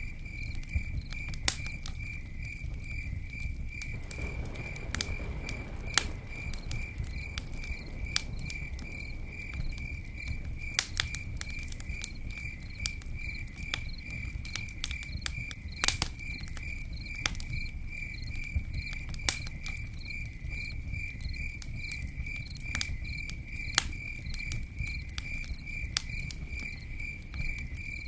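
Campfire crackling with scattered sharp pops over a low steady rumble, while a cricket chirps steadily in the background, two or three chirps a second.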